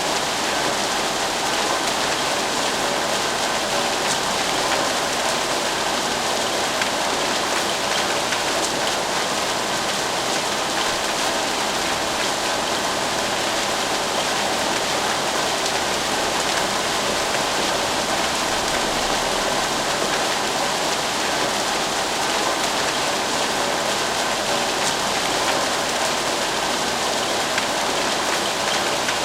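Rain falling steadily, an even hiss of drops that neither builds nor fades.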